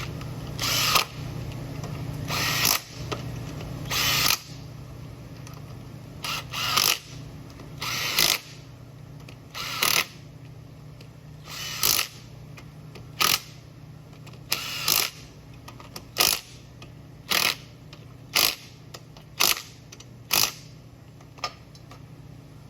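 Power driver running in the side cover bolts of a Tecumseh engine, in about sixteen short bursts spaced a second or two apart.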